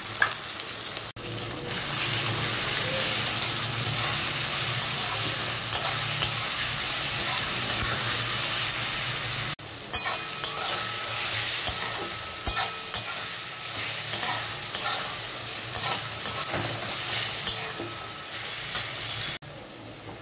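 Onions and tomatoes sizzling in hot oil in a metal kadai, stirred with a metal spatula that scrapes and clicks against the pan, more often in the second half.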